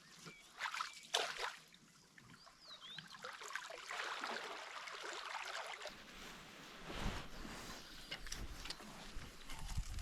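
Water sloshing, trickling and splashing in irregular bursts, growing steadier from about four seconds in, with a few short bird chirps.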